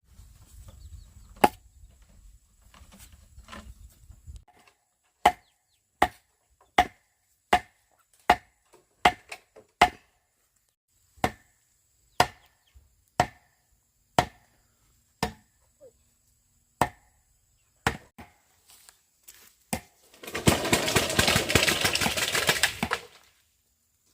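Bamboo being chopped with a blade: about twenty sharp, separate strikes at an uneven pace of roughly one a second, some in quick runs. Near the end comes a louder burst of rustling noise lasting about two seconds.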